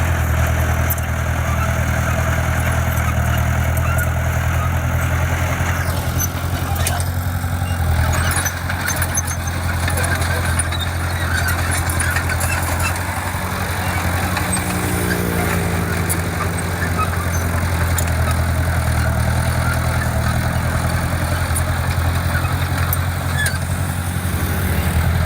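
Diesel engine of heavy construction machinery running steadily, with a brief dip about eight seconds in and a shift in pitch for a few seconds around the middle.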